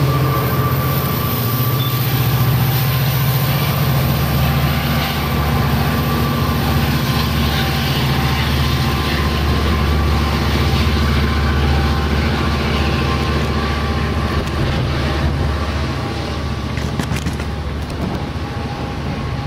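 Amtrak passenger train passing close by and pulling away, its EMD F59PHI diesel locomotive running on the rear with a steady heavy drone under the rumble of the wheels on the rails. The sound eases off near the end as the train moves away.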